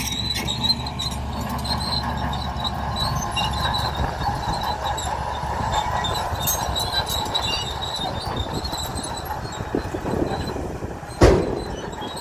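Crawler bulldozer working: a steady diesel rumble with squealing and clinking from the steel tracks. One loud clank comes near the end.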